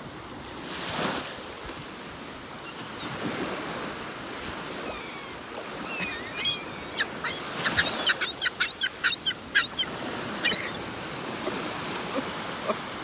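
Seagulls calling over steady breaking surf; about halfway through they break into a rapid run of sharp repeated calls, several a second, for a few seconds.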